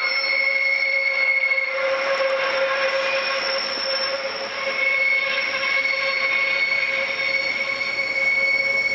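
Rhaetian Railway metre-gauge train running with its wheels squealing steadily, several high shrill tones held over the rolling rumble. The highest squeal fades out about two seconds in and comes back at about five seconds. The sound cuts off suddenly at the end.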